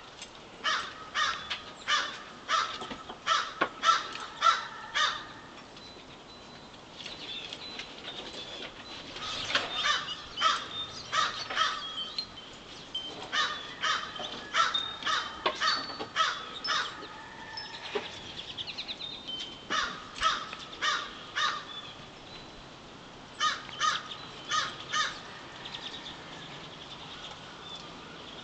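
Wild birds calling: several bouts of harsh, cawing calls, each a quick run of four to eight calls at about two a second, with a few fainter, thinner bird notes between the bouts.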